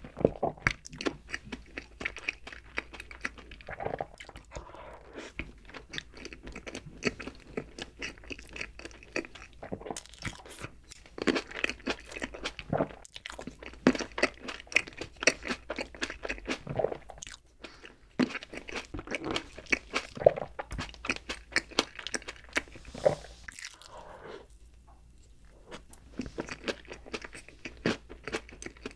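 Close-miked chewing of berry-topped chocolate cake eaten with chopsticks: a dense run of small, irregular wet clicks and smacks, easing into a brief lull a little before the end.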